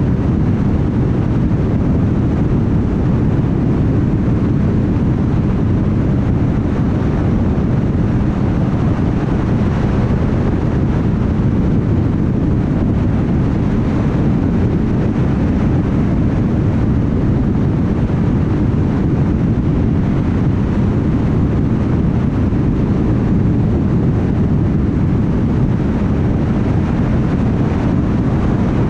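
Steady road noise of a car cruising on a highway: a constant low rumble of tyres on the road surface, mixed with wind, holding an even level throughout.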